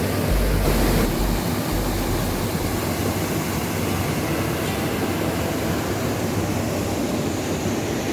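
Steady rushing of a rocky river's water. A low rumble sits under it for the first two seconds or so.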